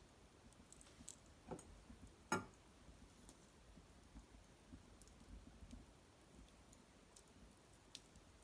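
Small wood fire crackling quietly: scattered sharp pops and ticks, the loudest one about two seconds in.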